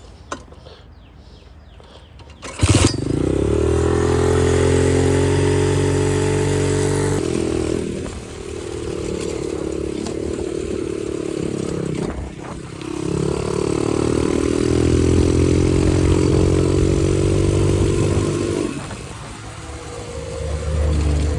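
Xpro 125cc four-stroke dirt bike engine bursting into life about two and a half seconds in, then running and revving. Its pitch climbs and falls back several times as the throttle is opened and closed.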